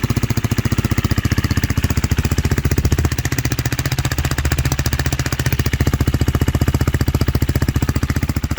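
Single-cylinder motorcycle engine of a KTM Duke 390 / Husqvarna Svartpilen-Vitpilen idling steadily through a short stubby slip-on exhaust tip with its silencer insert fitted and no muffler, a loud, even thumping idle. The engine is freshly started and still cold.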